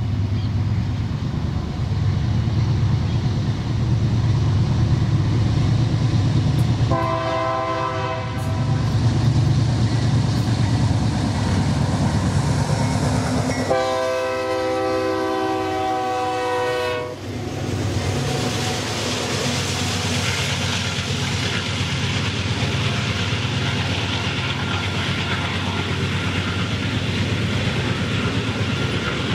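Freight train passing with a heavy low diesel locomotive rumble, sounding its horn twice: a short blast about seven seconds in and a longer one of about three seconds around fourteen seconds in. After that the wagons roll by with a steady clatter of wheels on the rails.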